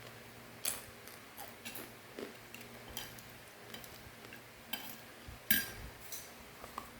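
Crunchy fried macaroni snack being handled and eaten, giving irregular sharp crackles and clicks, with the loudest at about half a second in and about five and a half seconds in.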